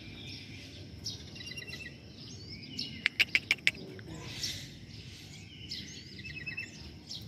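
Drongos calling: repeated short chattering notes and quick trills, with a run of five or six sharp, loud clicks about three seconds in, over a steady low background hum.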